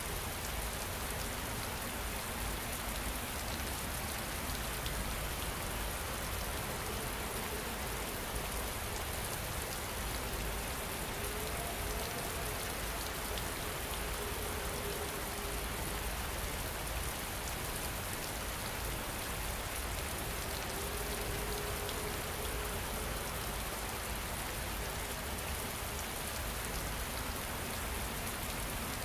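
Steady rain falling, an even hiss of drops with no pauses. A few faint held tones sound softly under it around the middle.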